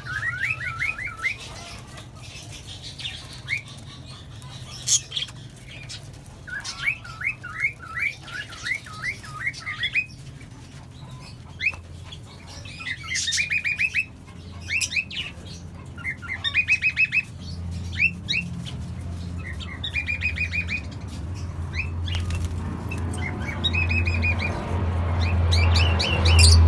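A mixed group of small pet parrots (cockatiels, budgies and lovebirds) chirping and calling, in quick runs of chirps broken by sharp, shrill single calls. A low hum grows louder near the end.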